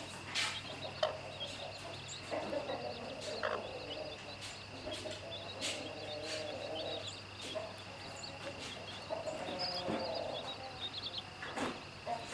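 Mother hen making low, drawn-out clucking calls to her chicks, with the chicks giving quick high peeps near the end, over a steady high background drone.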